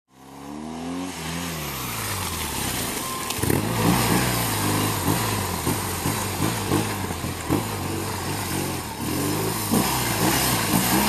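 Police motorcycle engine being ridden through a skills course. The throttle is eased off near the start, then opened and closed again and again, so the engine note rises and falls, with a longer rise and fall near the end.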